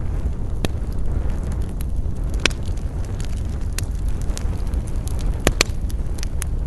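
Wood campfire burning: a steady low rumble of flames with scattered sharp crackles and pops from the burning wood, the loudest pops about two and a half seconds in and twice in quick succession about five and a half seconds in.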